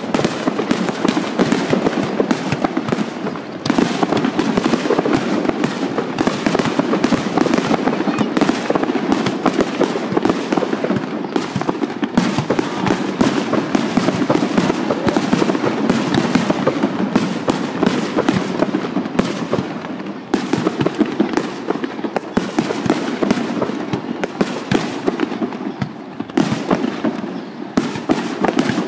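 Fireworks finale barrage: aerial shells bursting and crackling in a dense, near-continuous stream of bangs, with brief lulls about twenty and twenty-six seconds in.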